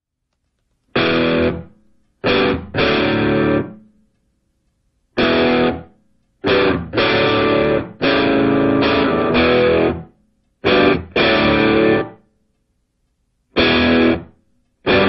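Music: distorted electric guitar chords played in short stop-start stabs, each chord cutting off to dead silence before the next.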